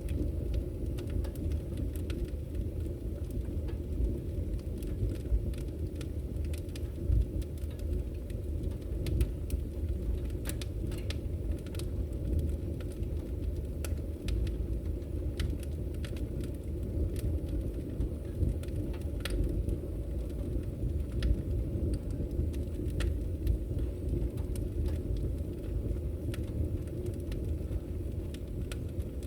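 Firewood burning: a steady low rumble of the fire with frequent, irregular sharp crackles and pops from the logs.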